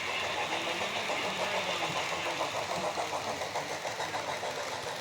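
HO scale model trains running on the layout: a steady mechanical whir with a fast, even ticking.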